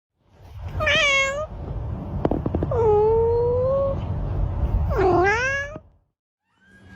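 A cat meowing three times: a short call about a second in, a longer drawn-out meow with a slowly rising pitch, and a third meow that dips and then rises, around five seconds in.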